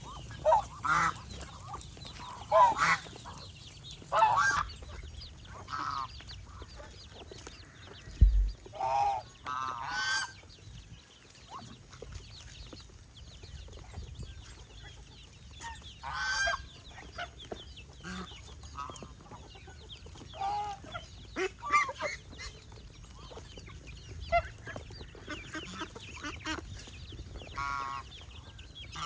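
Domestic geese honking: many short, separate calls at irregular intervals, with chickens clucking among them. A brief low thump comes about eight seconds in.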